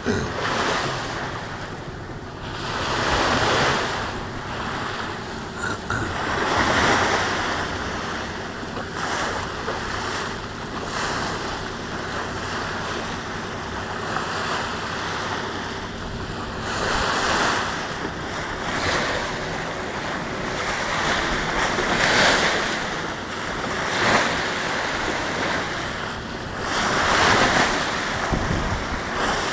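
Water rushing past a moving boat's hull and wind buffeting the phone microphone, in a steady hiss that swells every few seconds as waves pass.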